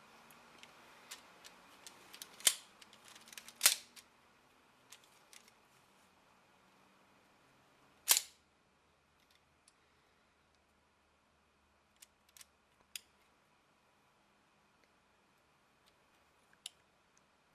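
Plastic clicks and snaps from a Lego rifle mechanism being worked: two loud snaps in the first four seconds and a third about eight seconds in, with fainter scattered ticks between.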